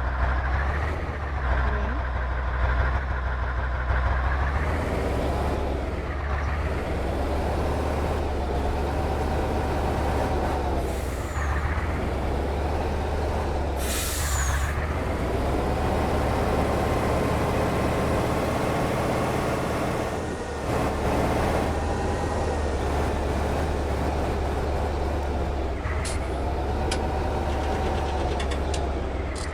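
Trial truck's diesel engine revving up and down again and again, working under load, with a short burst of air hiss about 14 seconds in.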